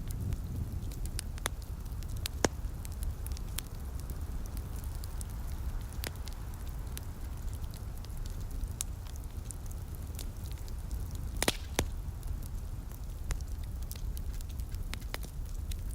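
Wood fire crackling, with scattered sharp pops, two of them louder (one about two and a half seconds in, one near the middle of the clip), over a steady low rumble.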